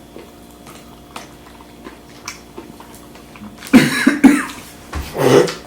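A person coughing hard, several times, starting about four seconds in after a few faint clicks; the coughing follows a taste of spicy hot-and-honey sauce and reads as a reaction to the heat.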